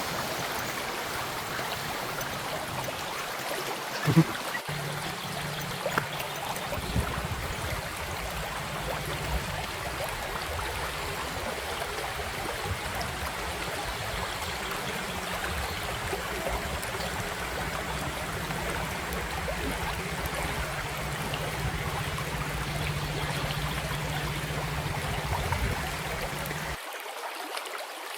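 River water flowing and trickling in a steady rush. A short knock comes about four seconds in, and a steady low hum sits beneath the water from just after it until it cuts off about a second before the end.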